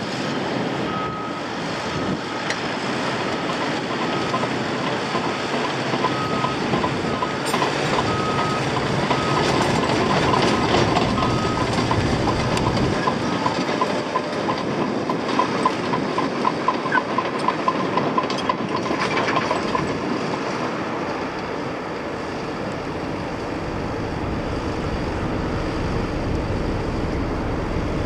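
Heavy machinery at a railway reconstruction site, with a reversing alarm beeping at a steady pace for the first ten seconds or so, then a run of rapid ticking.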